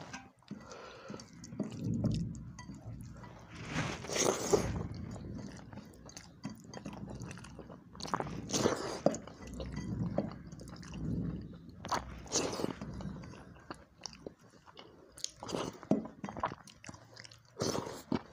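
Close-miked chewing of a mouthful of water rice (pakhala bhata) and chicken, coming and going every few seconds, with wet sounds of fingers scooping food from a plate.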